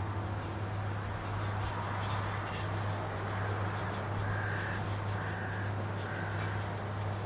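A crow cawing four times, about one call a second, starting partway through, over a steady low hum.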